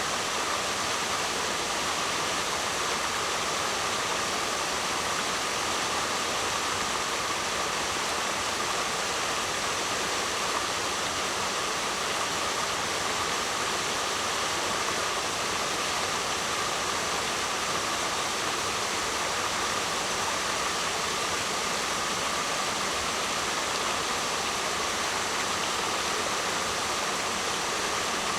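Waterfall: a steady, unbroken rush of falling water, with no surges or pauses.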